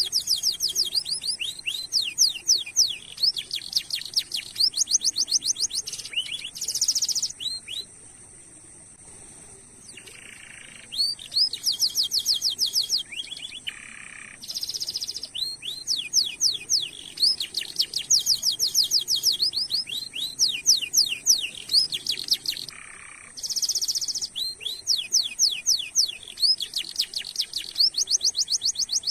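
Domestic canary singing in long rolls of rapid, repeated sweeping notes, broken by short buzzy phrases, with a pause of about two seconds roughly a third of the way in.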